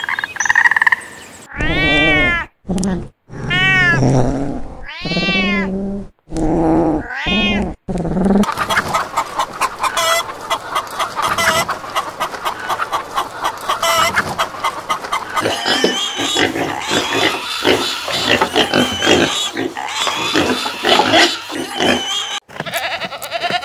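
A run of animal calls: a common frog croaking for the first second, then about five drawn-out meows, each rising and falling in pitch. A flock of hens clucking and chattering follows for most of the rest, and piglets suckling at a sow are heard near the end.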